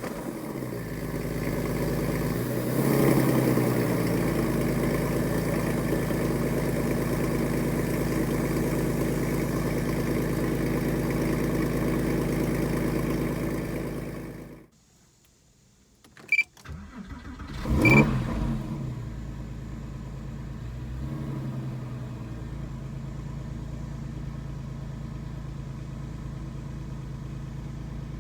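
2002 Porsche 911 Carrera 4S's flat-six engine running at a fast cold-start idle, then shutting off about halfway through. After a click it starts again with a brief rev flare and settles into a steady, quieter idle.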